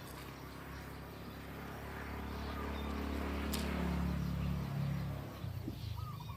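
A motor vehicle passing by: a low engine hum that builds to its loudest about four seconds in, then fades quickly, with faint bird chirps behind it.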